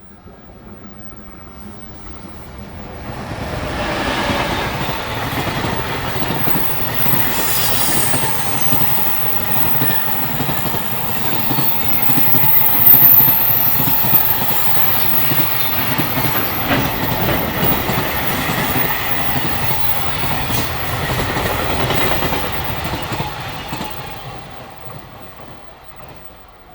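Long freight train passing close by at speed, its wheels clattering over the rails. It builds up over the first few seconds, is loudest about halfway through, and fades away near the end.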